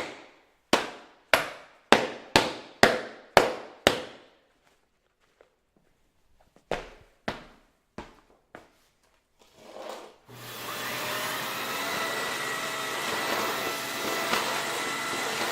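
A run of sharp knocks about half a second apart, then a few more. About ten seconds in, the Dyson Big Ball Multifloor canister vacuum's motor switches on and runs steadily with a faint whine.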